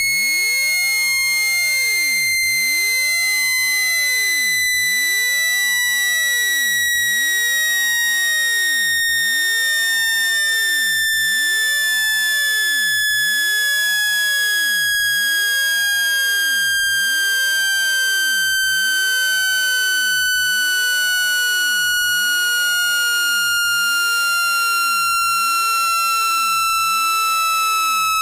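Synthesized speaker water-ejection tone: a single high pure tone sliding slowly and steadily down in pitch. It is meant to vibrate trapped water out of a phone's speaker.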